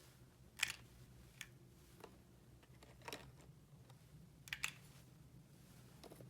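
A few light clicks and taps of small plastic toy pieces being handled, spaced irregularly about a second apart. The sharpest click comes just over half a second in, and a quick double click comes about four and a half seconds in.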